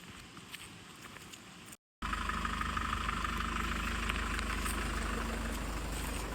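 A few faint clicks, then, after a brief dropout about two seconds in, a car engine running steadily with a low hum and a noisy hiss above it.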